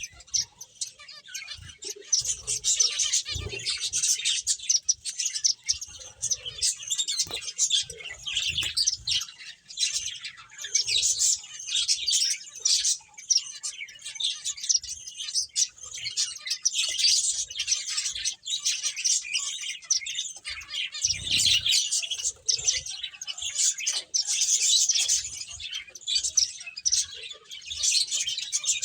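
Several finches chirping almost without pause, many short high calls overlapping one another, with a couple of soft low thumps.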